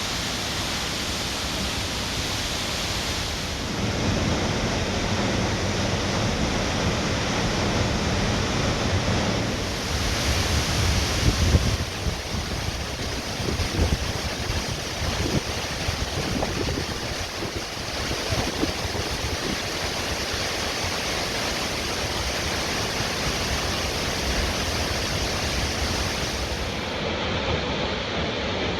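Waterfall running in heavy flow: a steady rush of falling water. The low rumble grows stronger for a stretch in the middle, with some uneven low thuds.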